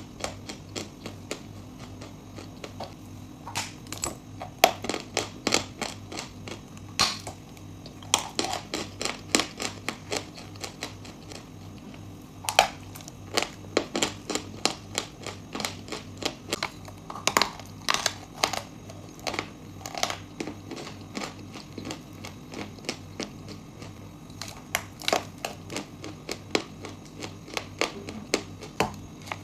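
Chalk and clay, with nuts, being bitten and chewed close to the microphone: a long irregular run of sharp crunches, coming in clusters, over a steady low hum.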